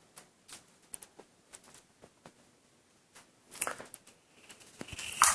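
Scattered light clicks and taps of paper sticky notes being handled, with a louder rustling click about three and a half seconds in and another near the end.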